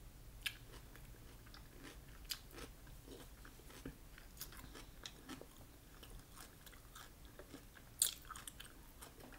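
Faint, close mouth sounds of a person chewing mussels, with scattered small wet clicks. About eight seconds in comes a sharper click as a mussel shell knocks against the glass sauce bowl.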